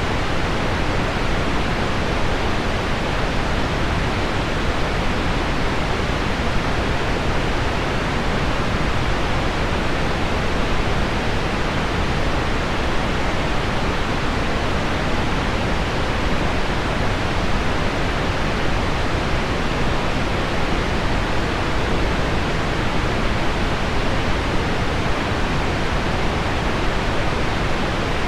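Heavy rain on window glass blended with pink noise: a steady, even hiss with no breaks.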